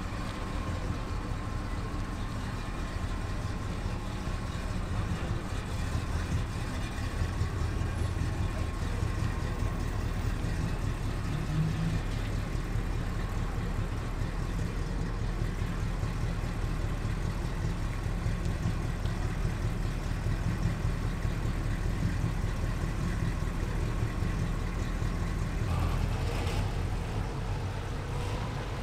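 Motor vehicle engines idling and running at low revs, a steady low engine sound with no clear revving.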